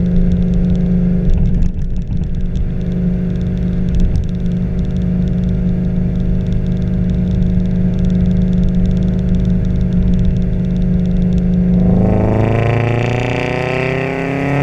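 Flat-four FA20 boxer engine of a GT86/BRZ breathing through unequal-length headers, overpipe and a muffler-delete track pipe, idling with a steady low rumble. About twelve seconds in it revs up, the pitch climbing.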